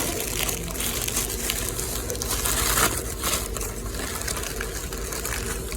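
Paper sandwich wrapper being unwrapped and crumpled around a sub: an irregular rustling crackle.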